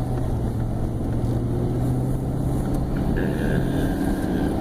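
Ford F-150's 5.4-litre three-valve V8 idling, heard from inside the cab. The idle speed hunts up and down with no foot on the throttle, and the pitch of the drone shifts about four seconds in. This surging idle persists after a fresh tune-up.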